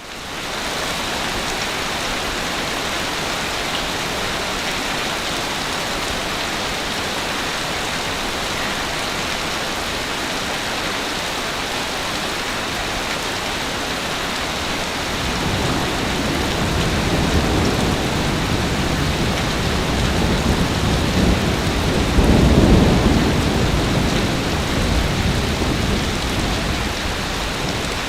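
Sea waves washing onto a beach: a steady hiss of surf, with a deeper swell building about halfway through, loudest a little past three-quarters in, then easing off.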